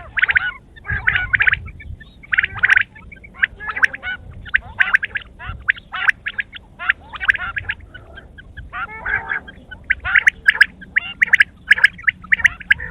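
Quail calling over and over in quick runs of notes, one run after another with short gaps.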